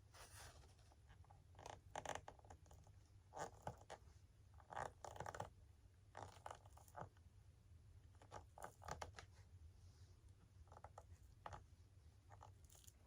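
Faint scratching and rustling from hands working small parts and wire leads into a foam model wing, in a series of short bursts over a low steady hum.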